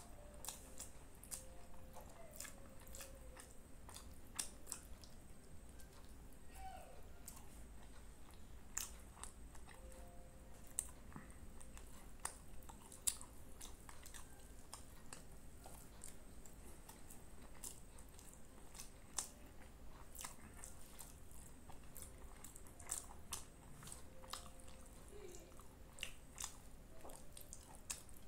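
Close-miked chewing of mouthfuls of egg fried rice and chicken curry, with frequent irregular wet lip smacks and mouth clicks.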